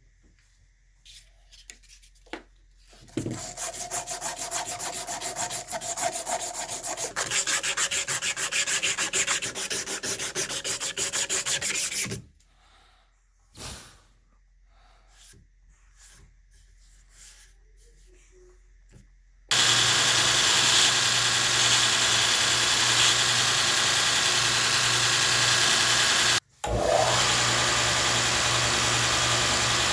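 Abrasive rubbing on a knife for about nine seconds in quick, dense strokes. After some quiet handling noises, a belt sander starts and runs steadily and loudly to the end, with a brief break near the end.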